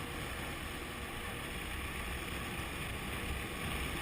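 Steady wind rush and low rumble from a Honda CB500F motorcycle riding along at road speed, with no changes in pace.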